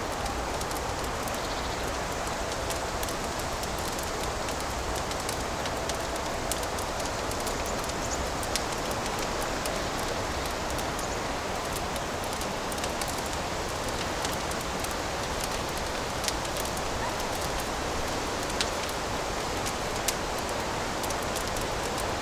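Fireplace fire crackling: a steady hiss with scattered sharp crackles and a few louder pops.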